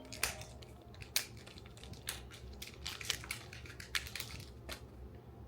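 Small plastic packaging crinkling and crackling as it is handled and opened, with irregular sharp clicks over a low steady hum.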